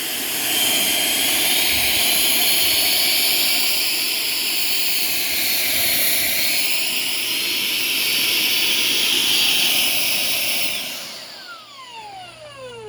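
Shark PowerDetect cordless stick vacuum running with a steady high whine, then cutting out about 11 seconds in, its motor winding down in falling tones. The shutdown is one the owner puts down to a clog or the vacuum getting too warm.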